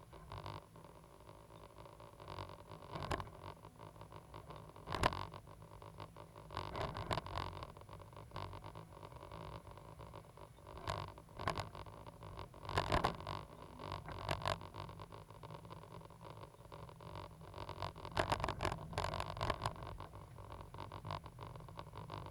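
Cat 320GC hydraulic excavator's diesel engine running steadily under irregular knocks and scrapes, with the heaviest knocks about 5, 13 and 18 to 19 seconds in.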